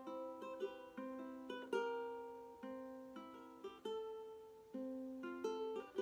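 Ukulele fingerpicked in a song's intro, single plucked notes and chords ringing one after another and fading between attacks.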